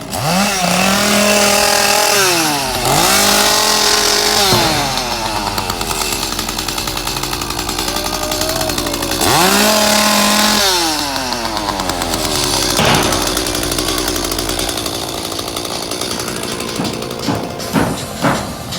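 Two-stroke chainsaw revving repeatedly: the engine note climbs sharply, holds at high revs for a second or two, then drops back, about three times. A few sharp knocks come near the end.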